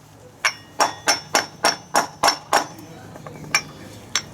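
Hammer blows on metal, driving a scooter's rear-wheel bearing, with a ringing note on each strike: about eight quick blows at roughly three a second, a pause, then two more near the end.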